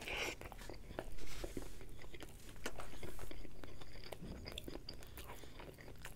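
A bite into a cheese-stuffed mushroom burger, then chewing with many small clicks and smacks.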